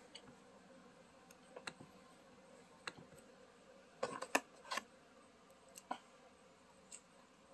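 Close-up eating sounds: chewing of potato wedges and chicken, with scattered wet mouth clicks and smacks. A quick cluster of louder clicks comes about four seconds in.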